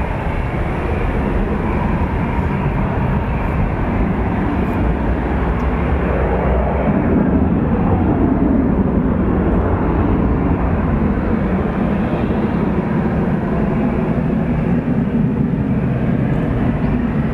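Jet airliner engines running loud at an airport runway, a steady dense rumble that swells about seven seconds in and then eases slightly.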